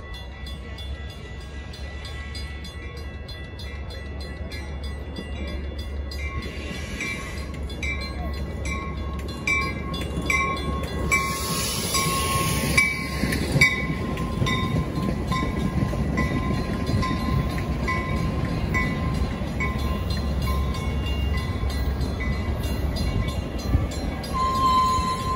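Metra bilevel commuter train rolling past on the near track, its rumble building up as the cars come alongside. Wheels click in an even rhythm over the rail joints, with a short hiss about halfway through.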